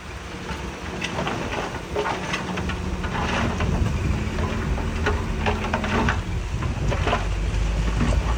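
Heavy diesel engine running steadily, with a dense, irregular clatter of stones knocking and rattling against each other and against steel.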